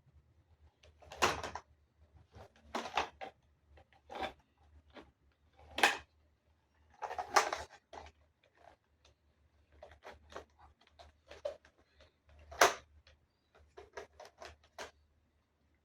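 Parts of a newly unboxed item handled and tried together by hand: irregular knocks, clicks and short scrapes, as pieces are pushed and fitted into one another.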